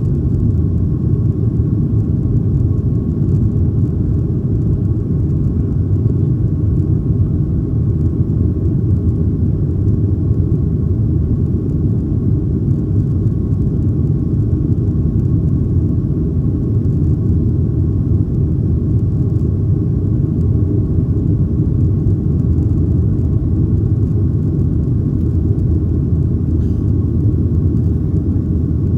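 Steady low rumble of cabin noise inside a Boeing 737-800, from its CFM56-7B turbofan engines, with a faint steady tone above it.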